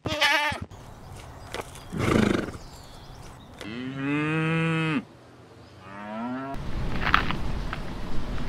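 Cow mooing: a long call of about a second that rises and falls in pitch, followed by a short rising call. The start holds the tail of a goat's bleat, and the end holds rustling with a few clicks.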